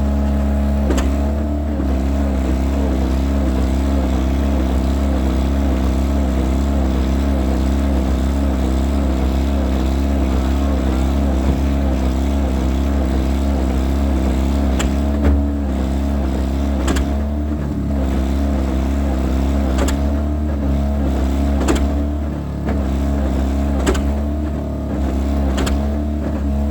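John Deere R tractor running steadily on a cold start, with a few sharp knocks over the engine note.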